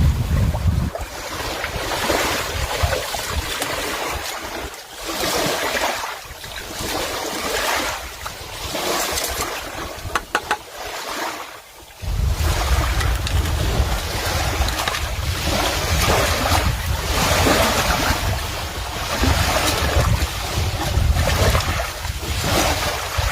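Rushing noise of surf or wind, swelling and fading every second or two, with wind buffeting the microphone as a low rumble at the start and again from about halfway through.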